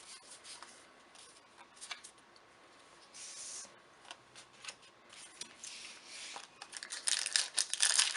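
Magic: The Gathering cards being handled, with light clicks and short rustles as they slide against each other. Near the end, a much louder crackling as a foil booster pack wrapper is crinkled and torn open.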